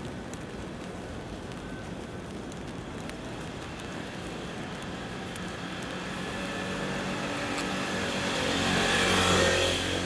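A car approaching and passing close, loudest about nine seconds in, with its tyres hissing on the wet road.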